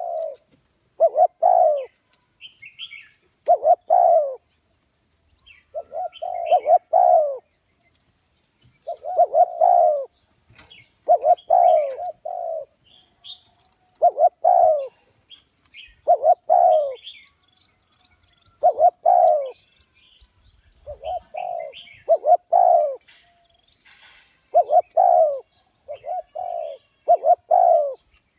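Spotted dove cooing: short low coo phrases repeated roughly every two seconds, a call used as a lure to bring wild spotted doves to a trap.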